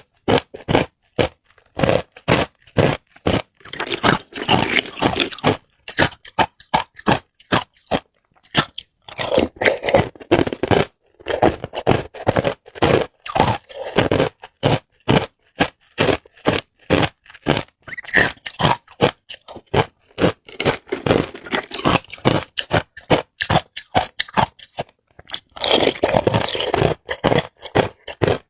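Hard ice cubes being bitten and chewed: a rapid run of sharp, cracking crunches, broken several times by stretches of denser grinding as the ice is chewed down.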